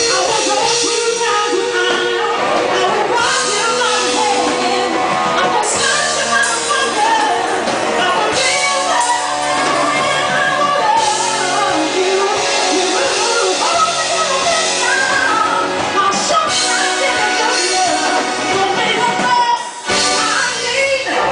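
Live rock band playing, with a singer's voice over the band, in a large room; a brief drop near the end.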